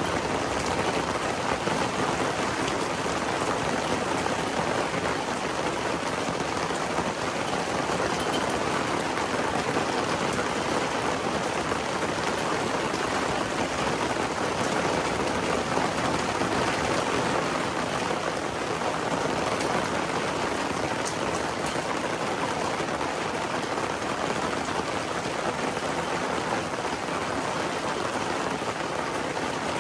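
Thunderstorm rain falling steadily, an even hiss with no thunderclap.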